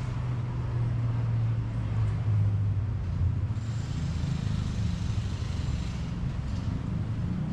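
A motor vehicle's engine running, a steady low hum that shifts slightly in pitch, with a hiss joining about halfway through.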